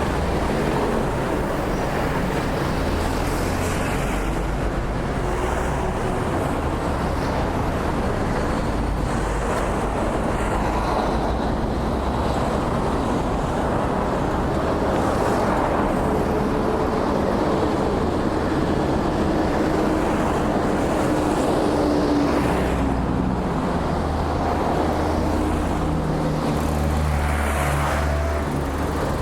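Steady road traffic: cars and other motor vehicles passing on a busy road, a continuous mix of engine rumble and tyre noise.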